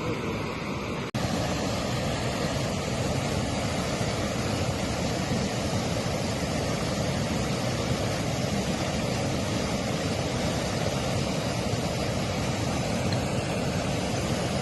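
Mountain stream water flowing in a steady, even rush, which cuts out briefly about a second in and comes back a little louder.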